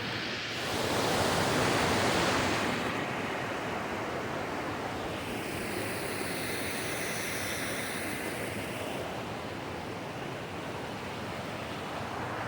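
Mountain stream rushing and splashing in a steady roar of water, swelling louder for about two seconds near the start.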